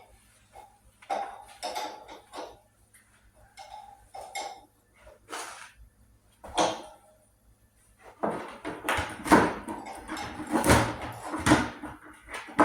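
Metal wrenches and hand tools clinking and clattering while being handled, with a busier run of clanks in the last few seconds.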